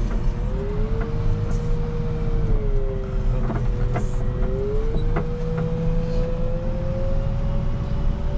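Rubber-tire wheel loader's diesel engine running under a steady low rumble, with a whine whose pitch rises and falls several times as the machine works.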